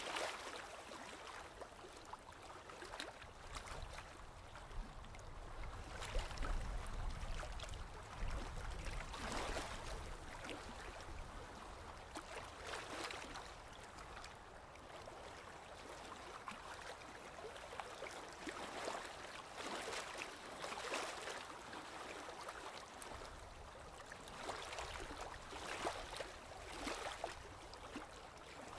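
Sea water lapping and splashing in small waves, swelling and easing every few seconds, with a low rumble underneath at times.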